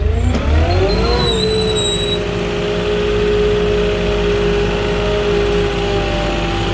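Moffett truck-mounted forklift engine revving up over the first second or so, then running steadily at raised revs as the forklift drives. A brief high-pitched whine sounds over the first two seconds.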